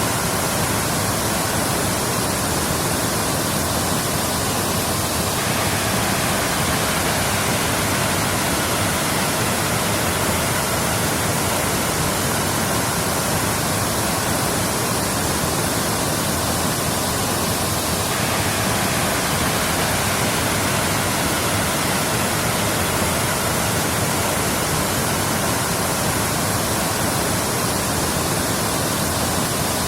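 Waterfall: a steady, even rush of falling water, with a slight abrupt shift in its hiss about every thirteen seconds.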